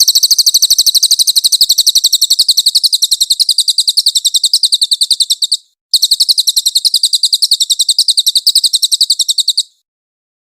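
Cililin bird singing a fast, high-pitched trill of rapidly repeated notes, about a dozen a second, in two long runs of about five and four seconds with a short break between.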